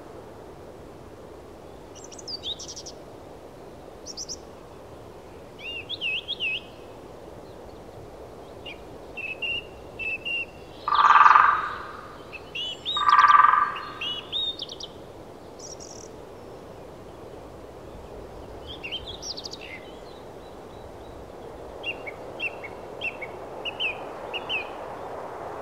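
Birds chirping and singing in short high phrases over a steady background hiss, with two louder, longer calls a couple of seconds apart about halfway through.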